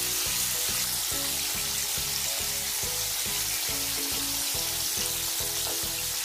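Battered fish fillets frying in a pan of hot oil, a steady sizzle, late in the fry as the coating turns light brown and crisp. Background music with a steady beat plays underneath.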